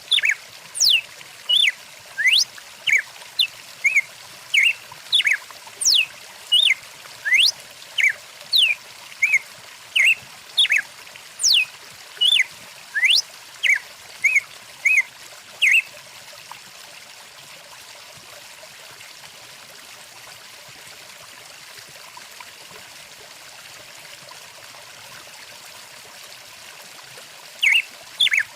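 Songbirds calling in quick chirps and sweeping whistles, about two a second, over the steady rush of a flowing stream. The birds fall silent a little past halfway, leaving only the running water, and start again near the end.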